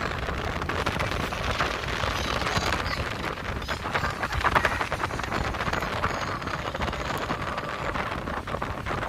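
Strong wind buffeting the microphone: a steady noisy rumble with fine crackle.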